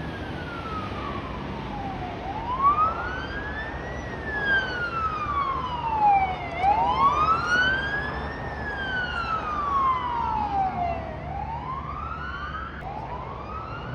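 Emergency vehicle siren sounding a slow wail, its pitch rising and falling about every four to five seconds, over the rumble of road traffic.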